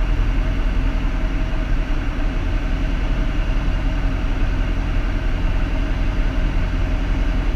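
Steady drone of a Piper Cherokee's piston engine and propeller, heard inside the cabin.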